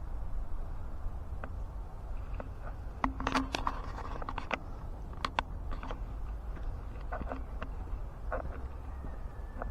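Steady low rumble with irregular sharp clicks and short scrapes, most clustered a few seconds in, and a faint thin steady tone near the end.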